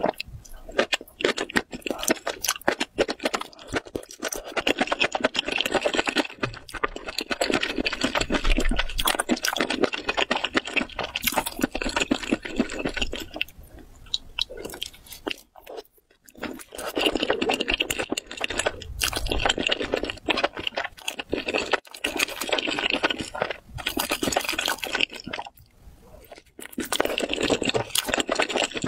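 Close-miked chewing of rubbery, sauce-coated squid in a spicy stew, with wet squelching and smacking, pausing briefly twice.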